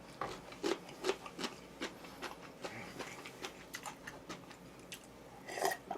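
A quiet run of light, irregular clicks and taps, about two or three a second.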